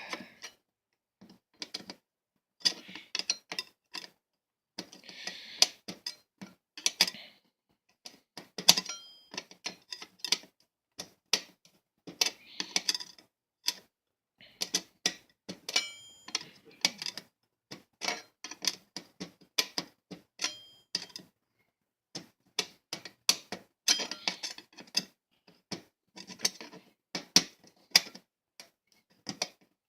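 A butter knife clicking and scraping in the head of a tight screw on a box fan as it is worked round to loosen it, in irregular bursts with short pauses. Some clicks have a faint metallic ring.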